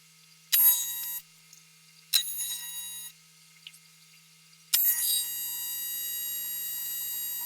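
AC TIG welding arc on 6061 aluminum: a high-pitched buzz, struck twice in short tacks of about a second, then struck again about five seconds in and held steady as a weld. A low steady hum runs underneath.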